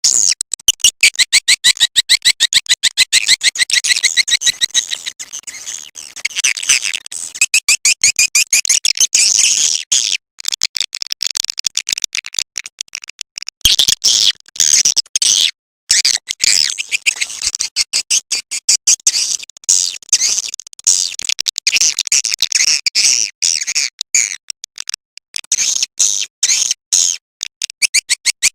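Recorded swiftlet calls, a 'suara panggil' lure track of the kind played to draw swiftlets to a nest house: fast, high-pitched chattering chirps and clicks in dense runs, breaking off briefly about ten seconds in and twice more a few seconds later.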